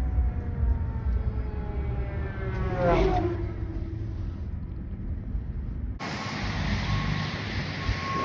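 A fire truck's siren gliding slowly down in pitch over the heavy rumble of the truck's engine. After a sudden change about six seconds in, a truck's reversing beeper starts sounding evenly spaced beeps over engine noise.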